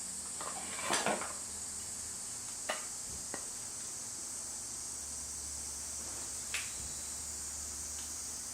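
Light clatter and knocks: a short cluster about a second in, then a few single clicks, over a steady high hiss.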